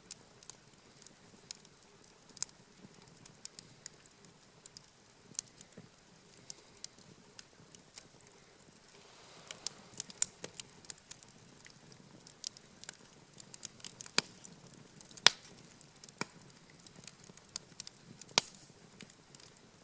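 Wood campfire crackling, with irregular sharp pops of varying strength, the loudest about fifteen seconds in.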